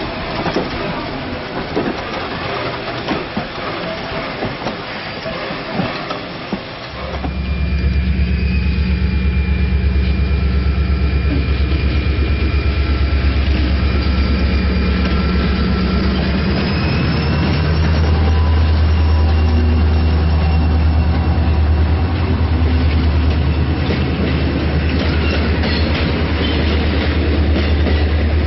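A vintage CTA electric rail car rolling past close by, its wheels clacking over the rail joints. About seven seconds in, this gives way to a diesel locomotive hauling passenger coaches, its engine a steady low rumble that grows louder about two-thirds of the way through.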